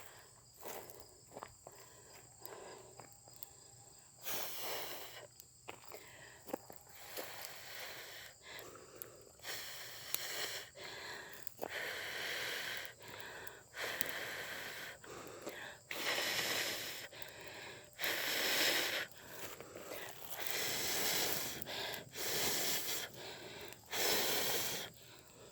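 A person blowing hard onto a smouldering bonfire to fan it into flame, in repeated long breaths: rushes of air about a second long with short pauses between, getting louder and closer together in the second half. Small crackles and snaps come between the breaths.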